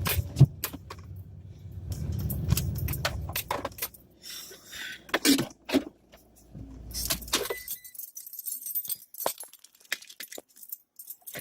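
A car's low running rumble that dies away partway through, with a bunch of keys jangling and clicking throughout.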